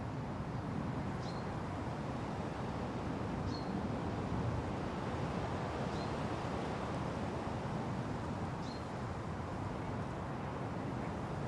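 Steady wind in forest trees, with a single bird repeating a short high call, a quick downward slur ending on a brief held note, about every two and a half seconds.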